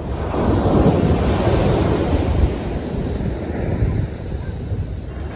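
Wind rumbling on the microphone over a rushing, wave-like wash of water, louder for the first couple of seconds and then easing a little.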